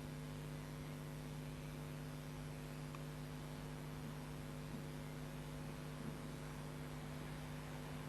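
Steady electrical hum with faint hiss: the recording's background noise during a pause in speech.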